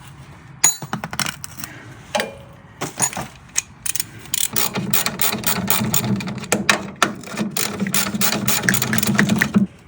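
Half-inch-drive socket ratchet clicking as it turns a gearbox mount bolt. A few scattered clicks are followed, from about four and a half seconds in, by a long steady run of quick clicks that stops suddenly just before the end.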